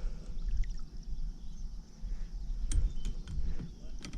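Insects chirping steadily in the background, over a low rumble, with a few short sharp clicks and knocks about three seconds in and again near the end.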